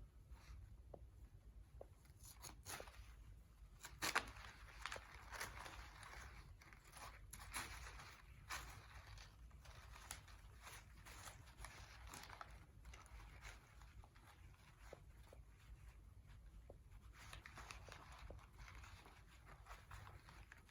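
Faint rustling and crinkling of paper coffee filters being pushed down jute twine, with scattered small clicks, busiest in the first half.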